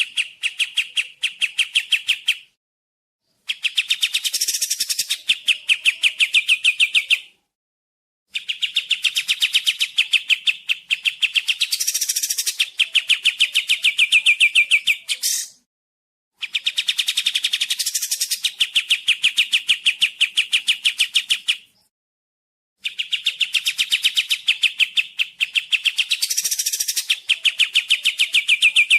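Kapas tembak song: long, rapid trills of evenly repeated chirps, in phrases several seconds long broken by short pauses, with brief higher sweeps within the phrases.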